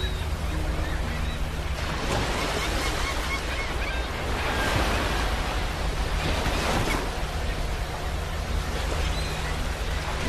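Sea waves breaking on a shore: a steady low rumble of surf with several swelling washes as waves come in, about two seconds apart.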